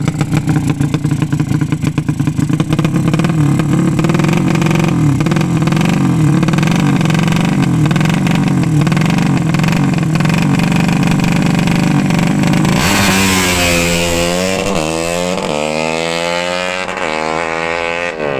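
200 cc racing motorcycle engine running at a loud, uneven idle, then revved up and down several times in quick blips over the last five seconds or so.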